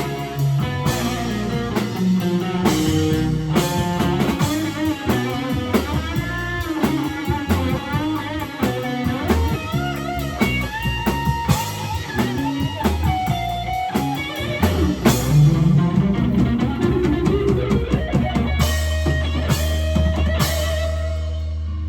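Live rock band playing: electric guitar with bass and drum kit, the guitar bending notes in a solo-like line, ending on a held chord.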